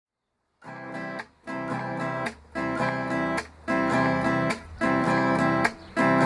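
Acoustic guitar strumming chords, starting about half a second in, in short rhythmic phrases with brief breaks between them.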